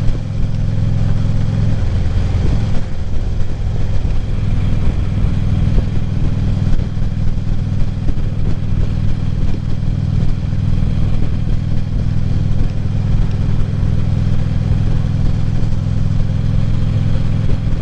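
Truck being driven, its engine and road noise making a steady low drone with a few small knocks.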